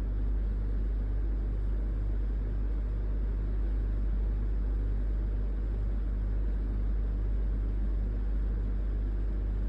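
A steady low hum with a light hiss.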